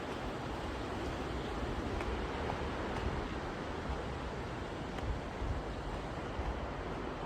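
Sea waves washing steadily onto the beach, with wind buffeting the microphone.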